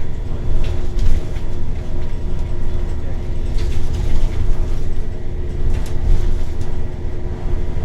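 Scania L94UB city bus with a compressed-natural-gas engine, heard from inside the cabin while under way: a low rumble of engine and road with a steady hum, and scattered rattles and clicks from the body and fittings.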